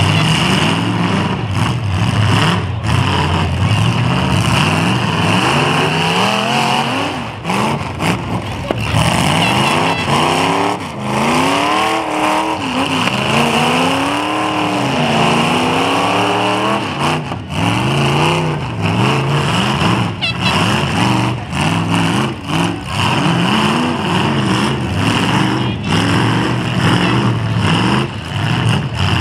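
Demolition derby car engines revving hard, the pitch rising and falling over and over as the cars drive and ram in the pit, with sudden knocks now and then.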